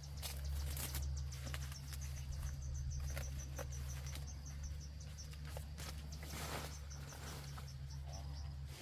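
An insect chirping in a train of short high pulses, several a second, over irregular crackling and rustling and a steady low hum.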